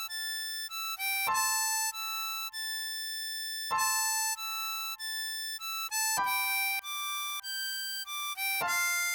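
Ten-hole diatonic harmonica playing a slow single-note melody with no bends, the notes changing several times a second and a stronger accented note about every two and a half seconds.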